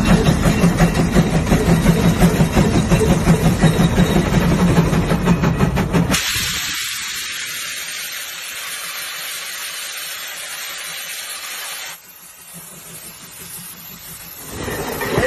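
Old tractor engine running with a rapid, even firing beat. About six seconds in it cuts abruptly to a steady hiss, which drops much quieter near twelve seconds, before a louder sound builds again at the end.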